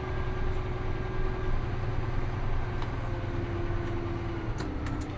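Concrete mixer truck's diesel engine running steadily with a low rumble.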